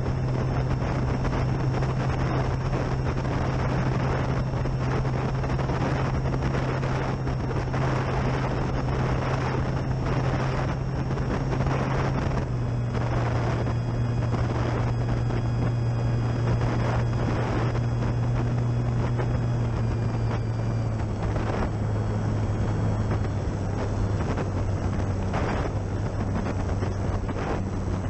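Durafly Tundra RC plane's electric motor and propeller droning steadily with a high whine, dropping in pitch a step about halfway through and again about three-quarters through. Gusty wind buffets the microphone throughout.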